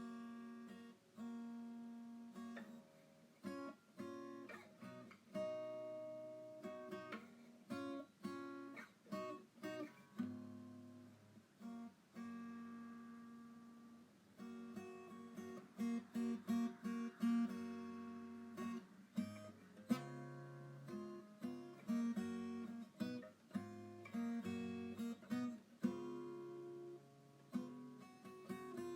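Background music: acoustic guitar, plucked and strummed, notes ringing and decaying in a steady rhythm.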